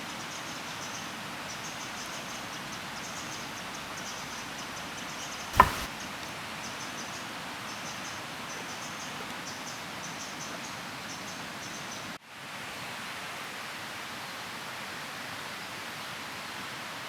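Steady hiss of outdoor ambience with faint insect chirping, broken by a single sharp knock about five and a half seconds in. The chirping stops abruptly a little after twelve seconds, leaving only the hiss.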